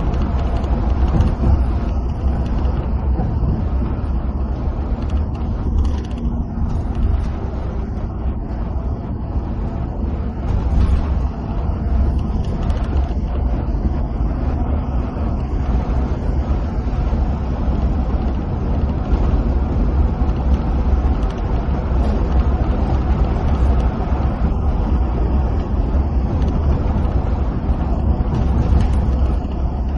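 Coach bus cruising on the highway, heard from inside the cab: a steady deep engine rumble mixed with tyre and road noise.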